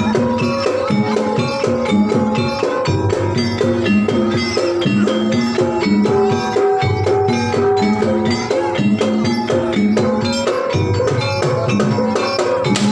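Banyumasan gamelan music playing continuously: a repeating pattern of pitched notes over drumming and rattling percussion.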